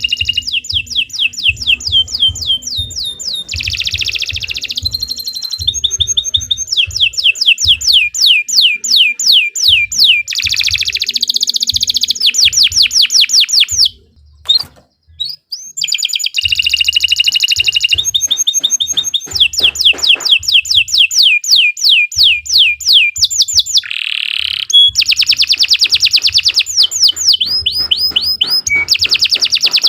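Domestic canary singing a long, loud song of fast trills and rapid runs of repeated sweeping notes, broken by a short pause about halfway through.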